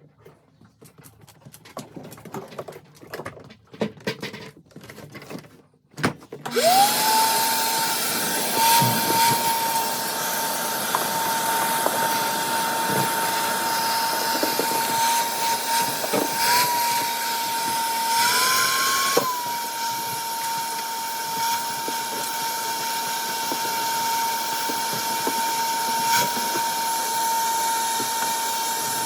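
A few scattered knocks and clicks, then a vacuum cleaner switches on about six seconds in. Its motor spins up to a steady high whine over a rushing hiss and keeps running, its pitch rising briefly once partway through.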